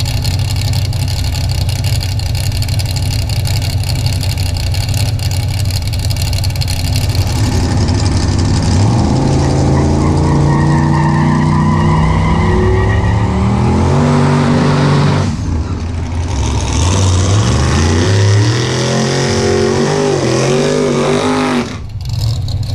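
Drag-racing car engine holding steady, then accelerating hard, its pitch climbing in steps with the gear changes. After a short drop it climbs again a second time and cuts off suddenly near the end.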